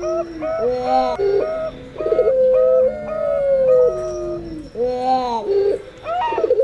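Puter pelung dove and perkutut (zebra dove) cooing together: long drawn-out coos that slide down in pitch, twice, over a quick run of short repeated notes.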